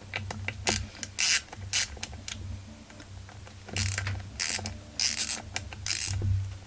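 Ratchet wrench being worked back and forth in short strokes, its pawl clicking in a dozen or so irregular bursts.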